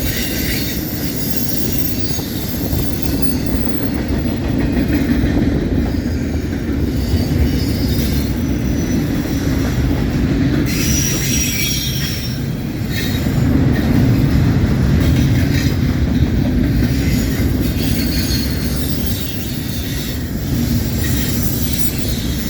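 Double-stack intermodal freight cars rolling past at track speed: a steady rumble of steel wheels on rail, with thin high wheel squeal coming and going.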